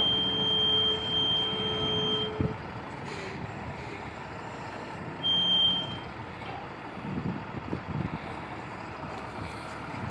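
A steady high-pitched tone sounds for about two seconds at the start and again briefly in the middle, over continuous vehicle noise.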